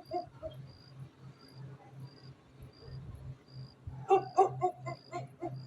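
A dog barking: a couple of short barks right at the start, then a quick run of six or seven short, high barks from about four seconds in.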